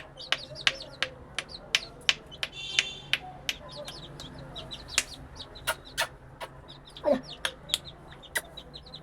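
22-day-old chicks cheeping and clucking, with many short sharp clicks throughout and one falling call about seven seconds in.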